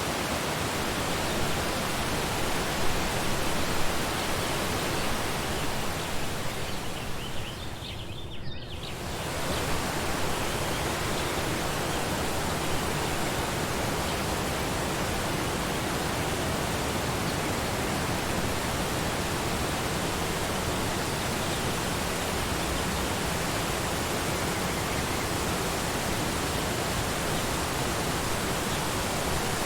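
Waterfall rushing steadily, an even wash of falling water. The sound dips briefly about eight seconds in, losing its high end for a moment, then comes back as before.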